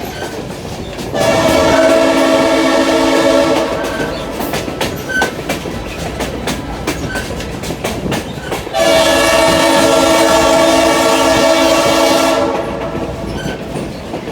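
Locomotive horn sounding two long blasts, about three seconds each, a few seconds apart, over the steady clickety-clack of the train's wheels on the rails.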